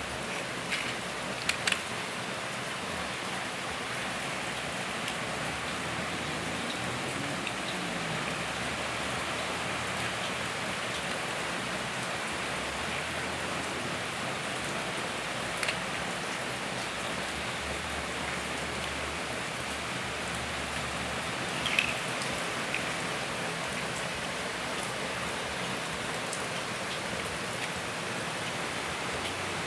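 Steady, even hiss that sounds like rain, with a few short sharp clicks scattered through it.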